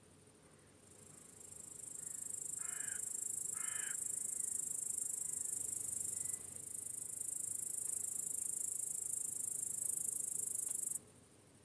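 Crickets chirping in a steady, high-pitched chorus that swells in over the first couple of seconds and cuts off abruptly near the end, with two short bird calls about three and four seconds in.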